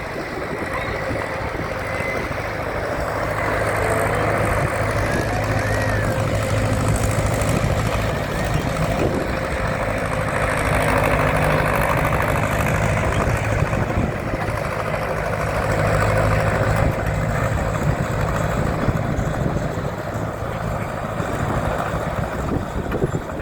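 Ford County tractor's diesel engine running steadily, growing louder through the middle and easing off again near the end.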